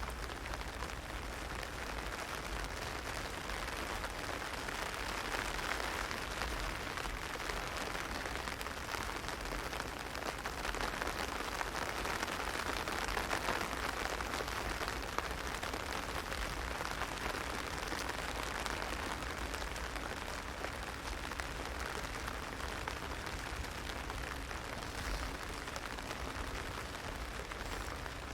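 Heavy rain hitting an umbrella: a steady, dense hiss of countless small drop ticks, with a low rumble underneath.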